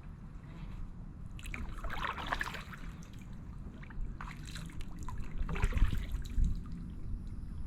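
Kayak paddle strokes in calm water, the blade dipping and water trickling off it, about three strokes spaced roughly two seconds apart over a steady low rumble.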